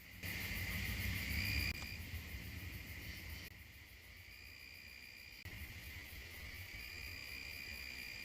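Crickets chirping steadily, a thin high trill, over a faint low rumble. The background level jumps up or down abruptly a few times.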